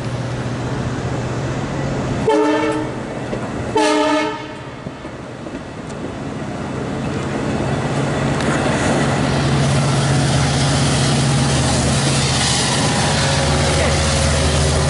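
Train horn gives two short blasts a couple of seconds in. Then a DM30AC diesel locomotive and its bilevel coaches pass: a steady engine drone with wheel and rail noise builds up and holds loud to the end.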